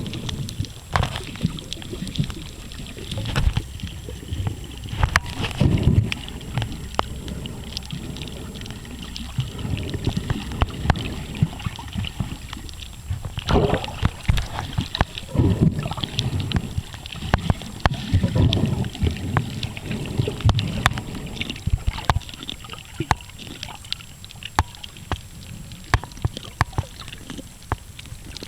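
Sea water heard through a camera held under water: irregular low rumbling and sloshing swells, with many scattered sharp clicks and crackles throughout.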